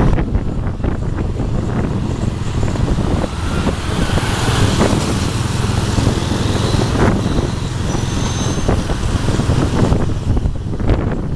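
Motorbike taxi ride heard from the pillion seat: the small motorbike engine running along through road traffic, under a steady low rumble of wind on the microphone.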